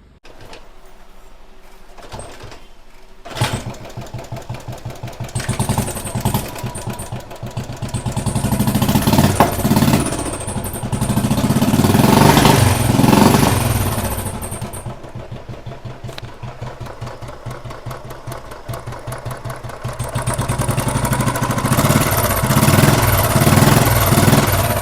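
Royal Enfield Thunderbird 350's single-cylinder engine starting about three seconds in, then running with an even thump and revved up and back several times. This is the engine after a repair of its sticking, noisy valves, which is meant to leave it running quietly.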